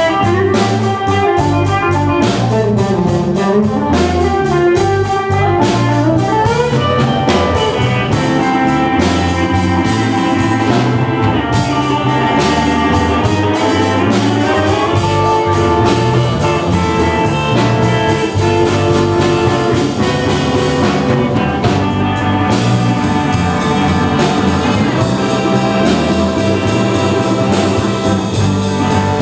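Live band playing an instrumental passage of a blues number, with drum kit, guitar and horn-like melodic lines over a steady beat.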